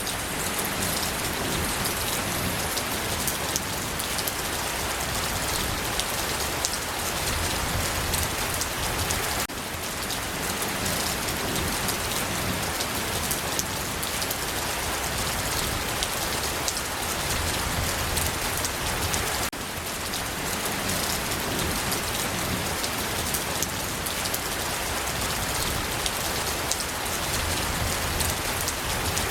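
Steady rain falling, a dense even hiss of drops with individual drop ticks heard through it. The sound dips briefly twice, about a third and two thirds of the way through, where the recording starts over.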